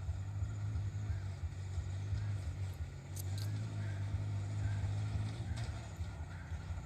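Small motorcycle engine of a three-wheeled mini truck running, a steady low drone with a quick pulse.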